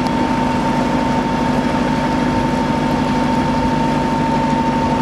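Hire motor cruiser's inboard engine running steadily at low revs, with a constant whine.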